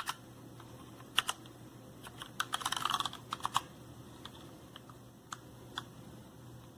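Keys being typed on a mechanical keyboard: scattered single key clicks, a quick burst of typing about two and a half to three and a half seconds in, then a few slower presses.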